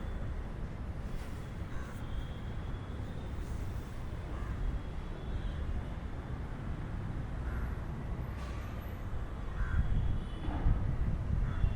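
A bird giving a few short, separate calls over a steady low rumble.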